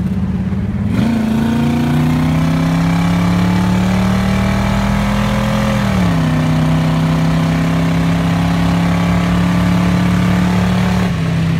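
1934 Chevrolet coupe's engine pulling under acceleration, its pitch climbing steadily for about five seconds. The pitch drops sharply at a shift about six seconds in, then holds steady at cruising speed, with wind and road noise throughout.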